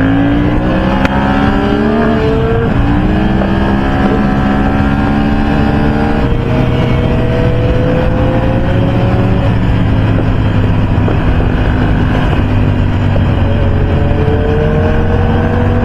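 Motorcycle engine pulling hard on the highway, its pitch climbing, dropping at gear changes about two and a half and six seconds in, then climbing again, over steady wind and road noise.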